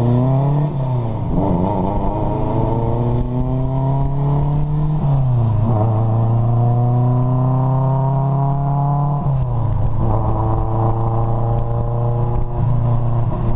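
Car engine pulling through the gears under acceleration. Its pitch climbs steadily, then drops at each upshift: about a second in, about five seconds in, and again about nine and a half seconds in.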